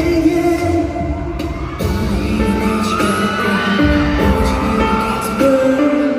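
Live pop music at a concert, with held synth chords, bass and a melody line, and faint whoops from the crowd.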